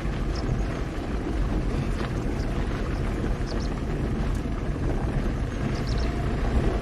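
Safari vehicle engine running, a steady low rumble.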